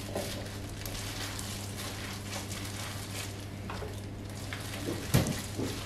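Hands kneading kısır mixture of bulgur, pepper paste and oil in a bowl, a soft wet crackling, over a steady low hum. A sharp knock about five seconds in.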